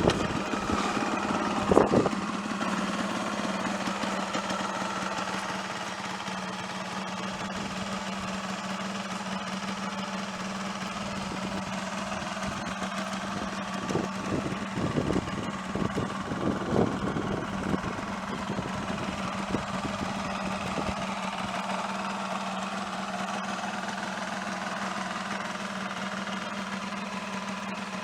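Yamaha DT125R's 125 cc two-stroke single-cylinder engine idling just after being started. It is louder for the first few seconds, then settles into a steady idle, with a few short louder bursts about halfway through.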